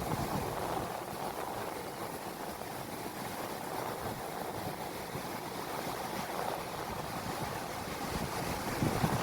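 Ocean waves washing against the shore, with wind buffeting the microphone; the surge swells a little near the end.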